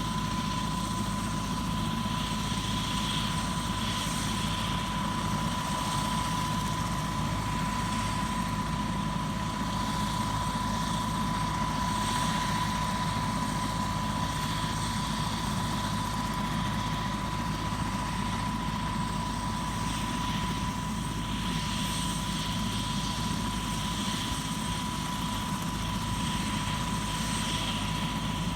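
Crop-spraying helicopter flying steadily: a low, even engine-and-rotor drone with a constant high whine.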